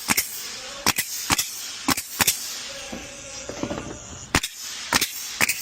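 A series of sharp, irregularly spaced bangs, about a dozen, over faint background music.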